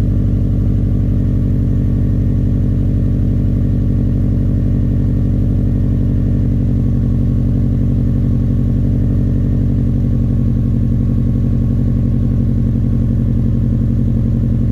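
Subaru Forester SF5's flat-four boxer engine idling steadily shortly after a cold start in −3 °C.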